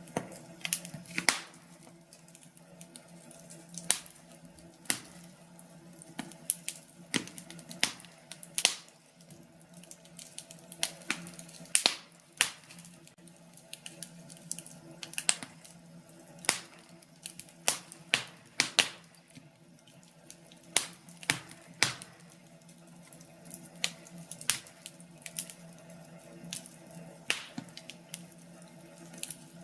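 Fire crackling in a fireplace: irregular sharp pops and snaps at uneven intervals, over a faint steady hum.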